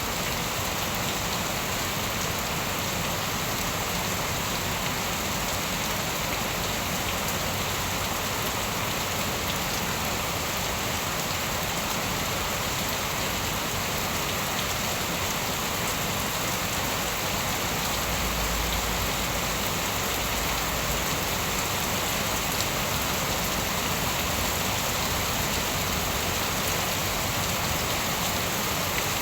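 Steady heavy rain falling and pattering on surfaces, an even unbroken hiss.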